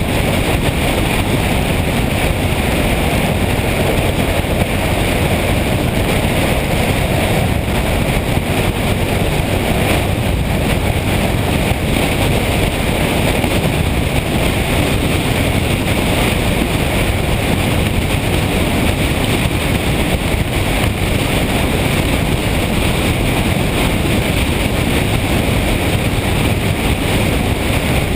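Steady rush of wind and road noise from a motorcycle on the move, heard through a microphone on the bike or helmet, unbroken throughout.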